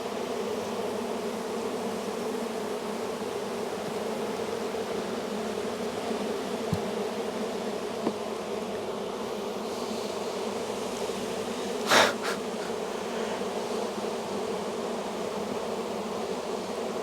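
A large honey bee colony in an opened hive, buzzing in a steady, dense hum. There is one sharp knock about three-quarters of the way through.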